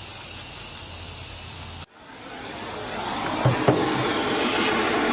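Steady hiss of a heating tool warming seized exhaust header bolts so they can be loosened. The sound drops out abruptly about two seconds in, then builds back up, with two light clicks a little later.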